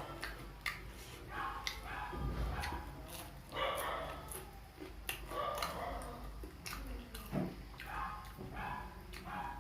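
A pet animal calling several times in short pitched cries, with sharp clicks scattered between them.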